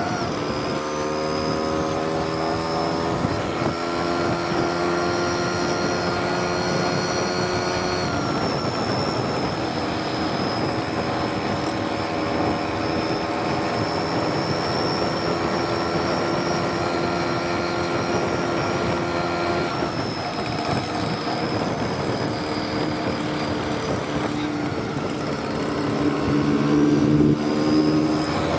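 Vespa VBB's 150 cc two-stroke single-cylinder engine running hard at full throttle. Its pitch climbs slowly, drops sharply about 8 seconds in and again about 20 seconds in, then rises and is loudest near the end.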